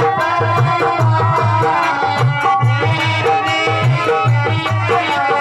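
Instrumental passage of Indian folk music: a steady, rhythmic drum beat with regular bright ticks on top and a sustained melody line, without singing.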